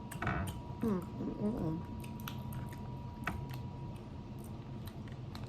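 Close-up eating of a seafood boil coated in butter sauce: wet chewing and squishing with scattered short clicks, and brief murmured voice sounds in the first two seconds.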